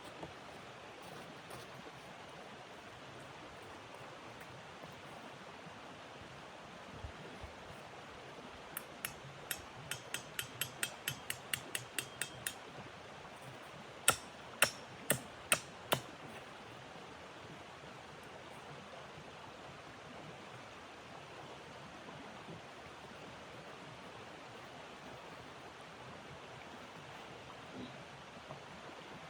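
Steady soft rushing noise. Partway through, a quick run of about a dozen light ticks is followed by four loud, sharp knocks about half a second apart.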